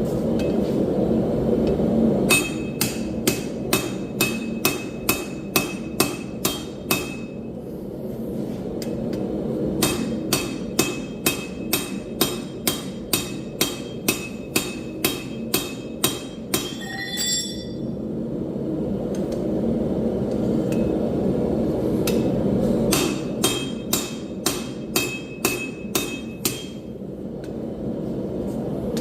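Hand hammer striking hot steel on an anvil in three runs of rapid, even blows, about three a second, each run ringing with a steady metallic tone; a short metallic clink between runs. A steady low rumble runs underneath.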